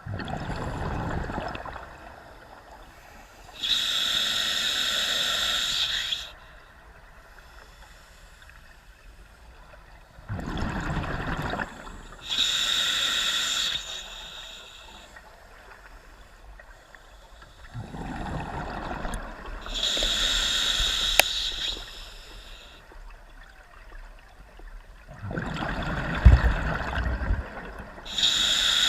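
Scuba diver breathing through a regulator underwater: a hissing inhale through the demand valve alternating with a bubbling exhale, about one breath every eight seconds, four breaths in all.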